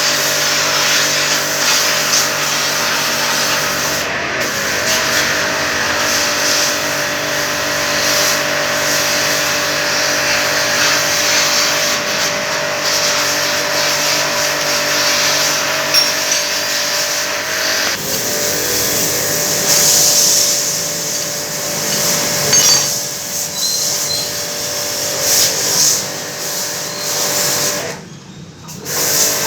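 A motor running steadily with a continuous hum; the hum changes about 18 seconds in, and the sound drops away briefly near the end.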